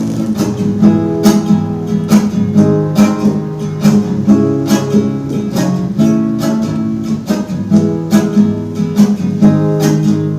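Strummed guitar chords in a steady rhythm: the instrumental break of a song between sung verses.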